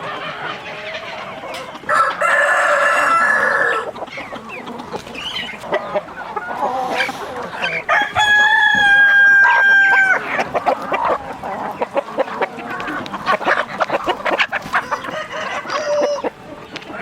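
Chickens clucking throughout while a rooster crows twice, each crow a long held call of about two seconds, the second one the loudest.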